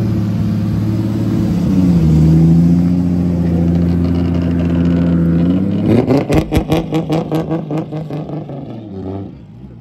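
A car engine runs at a steady pitch that drops slightly about two seconds in. About six seconds in it rises and breaks into a rapid stutter of about five sharp pops a second, then fades away.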